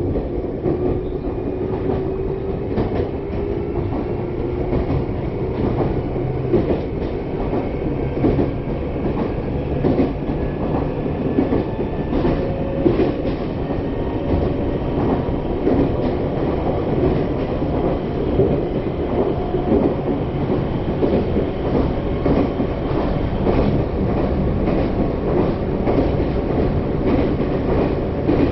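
Electric local train running, heard from inside the passenger car: wheels clicking over rail joints over a steady rumble, with the traction motors' whine rising slowly in pitch as the train gathers speed.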